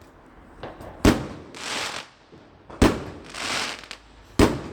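Fireworks going off: three sharp bangs about a second and a half apart, each followed by a short hissing crackle.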